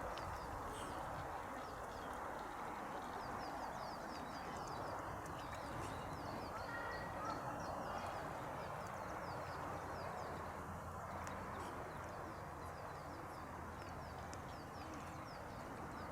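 Small birds chirping over and over, short falling notes, over a steady outdoor rustle.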